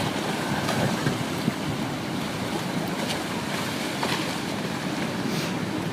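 Steady rush of a river in spring ice breakup, with scattered faint cracks and knocks from moving ice.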